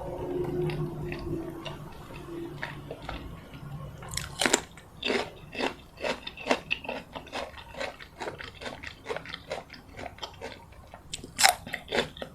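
Close-miked chewing and biting of crunchy food: soft mouth sounds at first, then from about four seconds in a steady run of crisp crunches, about three a second, with the loudest bite near the end.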